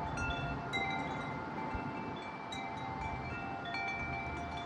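Wind chimes ringing in gusting wind: several tones, struck again and again and left to ring. Under them is a low rumble of wind on the microphone.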